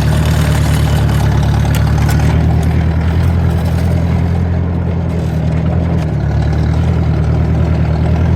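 Ford 620 tractor's four-cylinder engine running steadily at an even speed as the tractor moves off in second gear.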